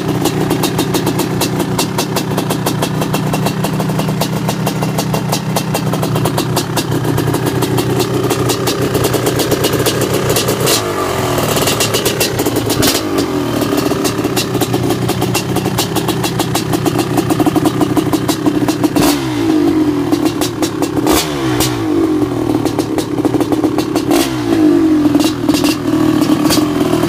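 Honda CR550 big-bore two-stroke single motorcycle engine idling unevenly on its first startup, blipped several times, the revs falling back to idle after each blip.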